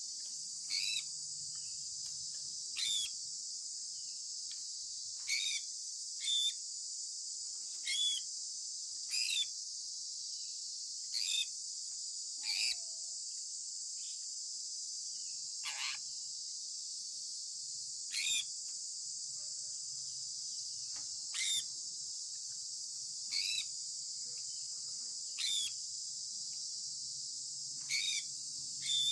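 A sun conure giving short, sharp descending chirps, about one every two seconds, over a steady high-pitched insect drone.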